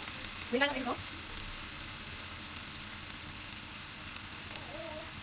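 Sliced onions frying in oil in a pan, giving a steady sizzle. A short pitched sound cuts in about half a second in, and a fainter one near the end.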